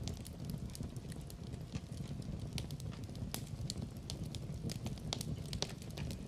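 Wood fire burning: a steady low rumble with irregular sharp crackles and pops, several a second.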